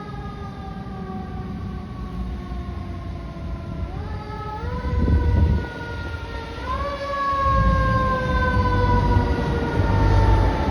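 Fire engine siren wailing: the tone slowly falls, is pushed back up in pitch twice (about four and seven seconds in), then winds down again. Over it comes the heavy rumble of the truck passing close.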